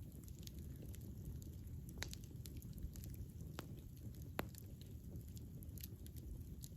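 Wood fire crackling: scattered sharp pops and snaps over a steady low rumble of the burning, the sharpest snap about four seconds in.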